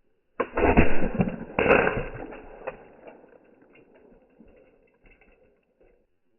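Potato cannon firing a buckshot canister shell: a sudden loud bang about half a second in, a second loud hit about a second later, then the noise dies away over a few seconds.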